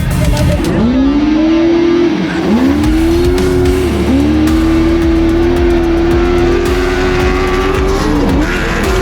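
Race truck engine accelerating hard through the gears. Its pitch climbs, drops at each shift about two and a half, four and eight and a half seconds in, then climbs again, with a long held stretch at high revs. Background music plays underneath.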